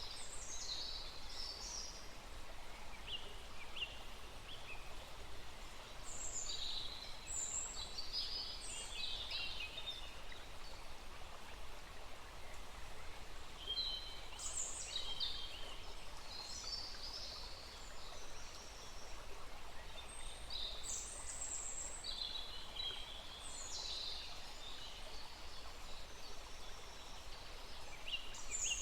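Small forest stream running steadily, with songbirds calling and singing in scattered bursts of quick high notes over it.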